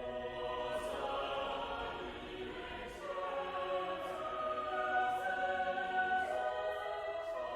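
A choir singing slow polyphonic music: several voices hold long notes at different pitches, each moving to a new note at its own time.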